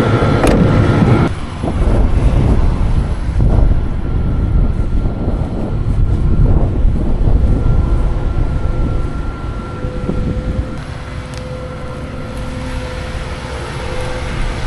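Diesel engine of heavy farm machinery running, with a deep steady rumble. The sound changes abruptly about a second in, and a steady machine hum sits over the rumble later on.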